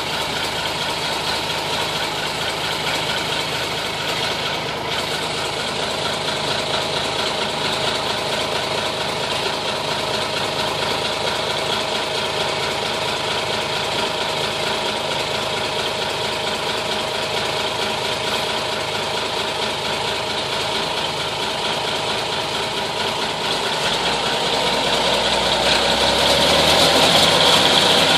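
Cummins diesel engine of an M931 5-ton military truck idling steadily shortly after a cold start, running while the air brake system builds pressure. It grows louder near the end.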